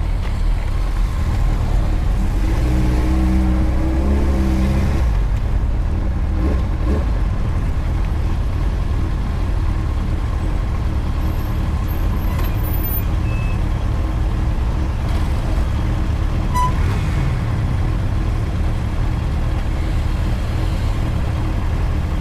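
Motorcycle riding on the road: a steady low engine rumble and rushing wind and road noise. A pitched engine note stands out for a few seconds shortly after the start.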